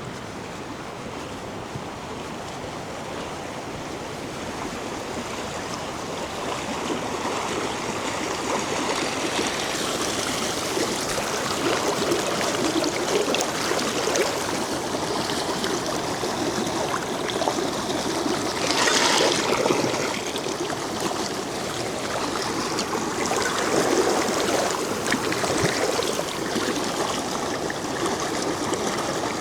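Mountain stream running with a steady rush of water that grows louder over the first ten seconds or so. It has a brief louder surge about nineteen seconds in.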